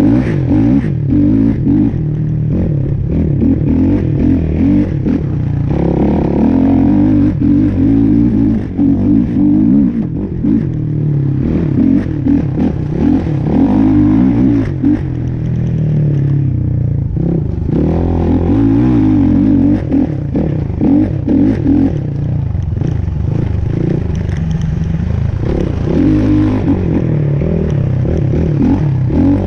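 Off-road vehicle engine running and revving up and down while driving a rough trail, with rattling and clatter throughout.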